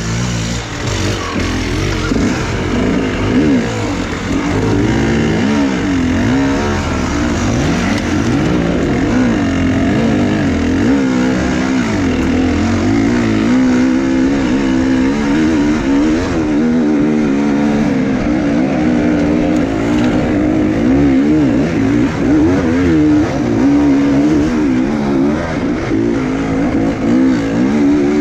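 Enduro motorcycle engine running under constant throttle changes, its revs rising and falling over and over with no let-up.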